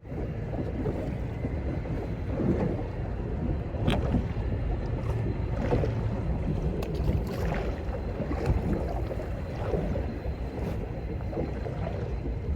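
Small boat running underway: a steady outboard motor with wind on the microphone, and water slapping against the hull every second or two.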